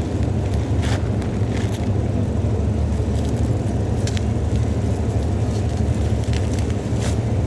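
Phone packaging being handled and opened: scattered short crackles and clicks, about half a dozen, over a steady low rumble of background noise.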